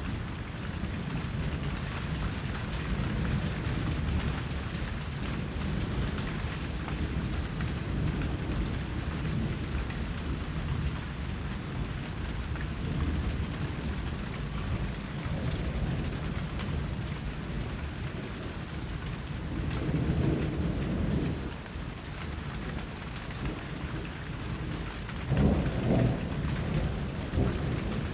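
Steady rain falling, with low rolling thunder underneath that swells twice: about twenty seconds in, and more loudly near the end.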